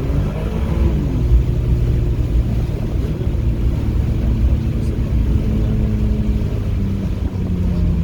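Race-track car engine running under way: its note slides down about a second in, holds steady, then steps a little lower near the end, over a constant low rumble of the car on the wet track.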